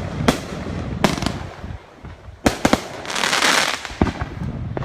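Fireworks going off across a lake: a series of sharp bangs, some in quick pairs, with a longer hissing burst about three seconds in.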